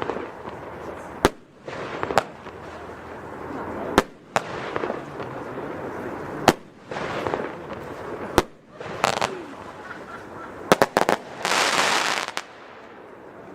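Nico Gamma Ray F2 battery firework (cake) firing: single loud bangs every two to three seconds with crackling hiss between them, then a quick cluster of bangs and a dense crackling hiss before it dies down near the end.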